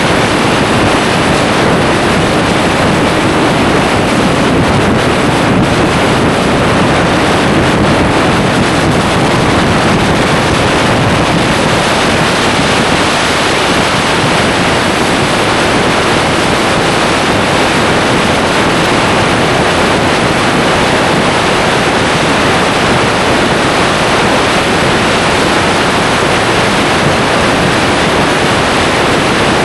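Loud, steady wind rush over the microphone of a moving motorcycle, with no clear engine note.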